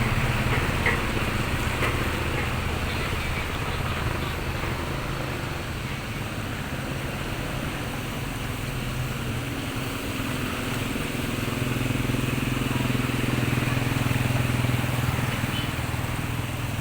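Motor vehicle engine running close by with a steady low hum, fading somewhat midway and then growing louder again.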